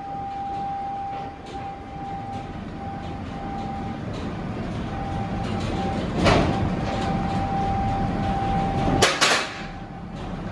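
Scania R530 truck running, with a steady high-pitched whine over the low hum and two loud, sudden bursts of noise about six and nine seconds in.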